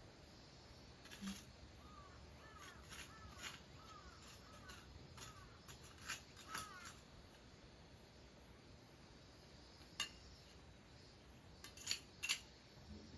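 Faint scattered sharp clicks and scrapes of a hand sickle cutting weeds, with a bird calling a quick run of short rising-and-falling notes about two to five seconds in.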